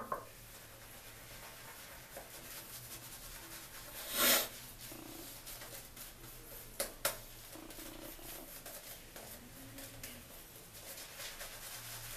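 Soft rubbing and swishing of a badger shaving brush working lather, with one short louder swish about four seconds in and two sharp clicks a little before halfway.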